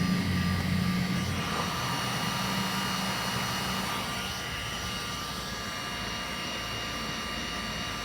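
Electric heat gun's blower running with a steady whine, used to heat and smooth scratched plastic; a deeper hum fades out over the first few seconds.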